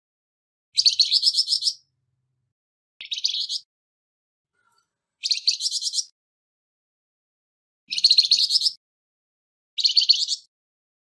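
A flamboyan songbird giving harsh, rasping song phrases: five short bouts, each a rapid string of buzzy notes lasting under a second, separated by gaps of one to two seconds.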